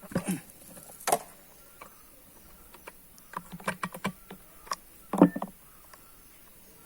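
Spark plug being taken out of a Stihl MS460 chainsaw: irregular metal clicks and knocks of the plug wrench and handling, with a louder knock about a second in and a cluster of knocks about five seconds in.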